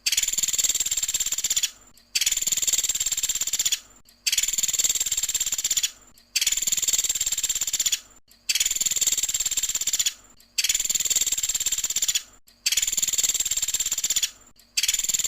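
A pelatuk sampit, a small woodpecker kept by bird hobbyists, giving a rapid, high-pitched rattling call in 'tembakan' style. Each call lasts just under two seconds and repeats about every two seconds with a brief gap, like a looped recording.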